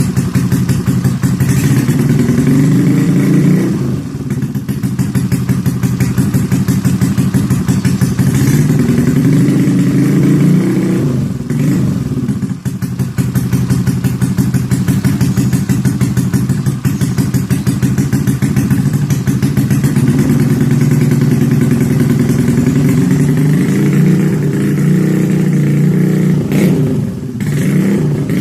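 Yamaha X-Ride scooter's single-cylinder four-stroke engine running loudly through an aftermarket Izze exhaust muffler, held at steady revs with brief drops about four, twelve and twenty-seven seconds in.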